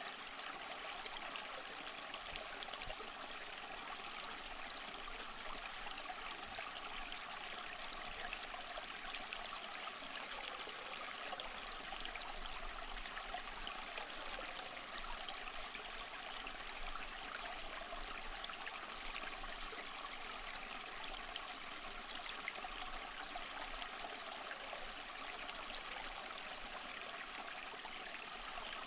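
A small stream running over stones, a steady even rush of water with fine splashing and trickling throughout.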